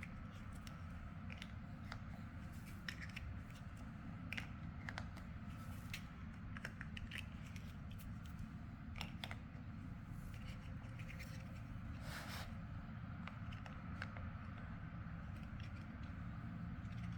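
Small plastic building blocks being handled and snapped together: scattered light clicks, one slightly longer rustle about three-quarters of the way through, over a faint steady low hum.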